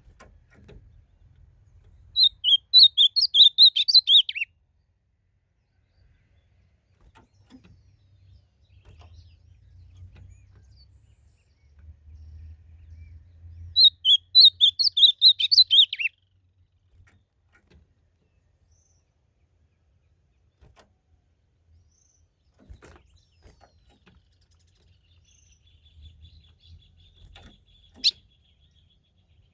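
Ultramarine grosbeak (azulão) singing: two short song phrases of quick, high warbled notes, each about two seconds long, the second about ten seconds after the first. A single sharp click comes near the end.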